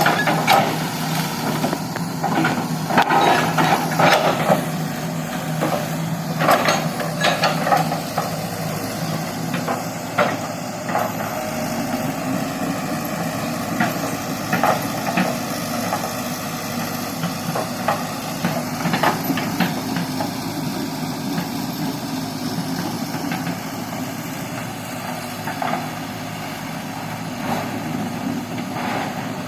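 Excavator's diesel engine running steadily, with irregular metal clanks and knocks, most frequent in the first several seconds and occasional after that.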